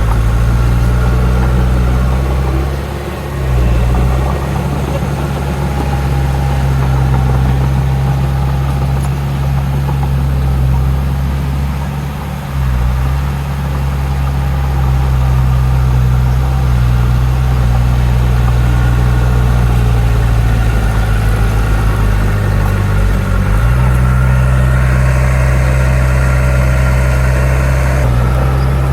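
Heavy diesel engine of earthmoving machinery running steadily under changing load. Its deep note dips briefly twice, and it pulses unevenly for a couple of seconds later on.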